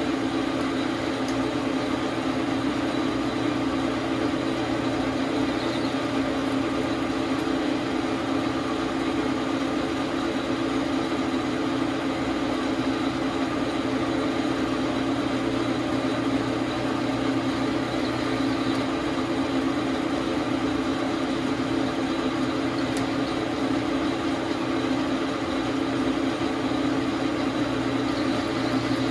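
Dar Sin 12 x 37 manual metal lathe running at a steady speed, its motor and drive giving an even, unbroken hum.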